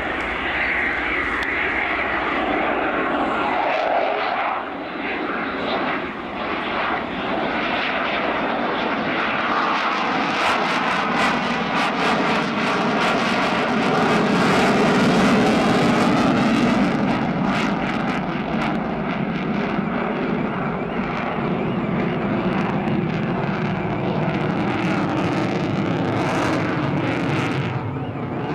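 Eurofighter Typhoon jet engines in a display flypast: a steady, noisy jet sound that swells to its loudest about halfway, with crackling as it passes, then eases off.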